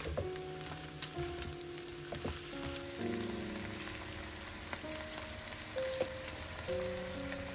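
Napa cabbage sizzling as it stir-fries in a stone-coated wok, with occasional light clicks of the spatula, over soft background music of held notes.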